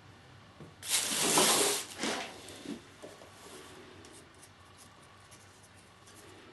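A hand tool scraping across wood in one long rough stroke, then a shorter stroke and a few light clicks.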